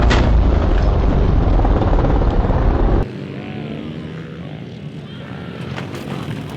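Small dirt bike engines running at a race track: loud and close for about three seconds, then after a sudden drop, fainter, with engine pitch rising and falling as the bikes rev.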